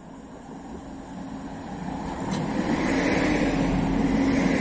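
Regional passenger multiple-unit train approaching and running past along the platform, its running noise growing steadily louder as it nears, with a steady low hum joining in about halfway through and a single sharp tick.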